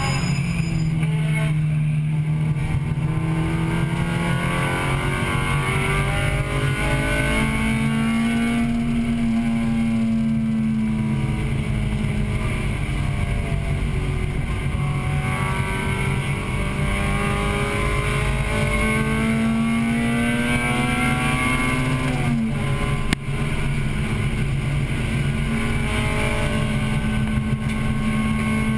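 In-car sound of a 1998 Acura Integra Type-R's four-cylinder engine under racing load, its note climbing and falling with the revs, over road and wind noise. A sharp click with a brief dip in loudness comes about two-thirds of the way through.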